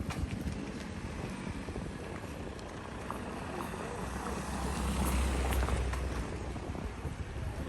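A motor vehicle passing: a low engine hum that swells to its loudest about five to six seconds in, then fades.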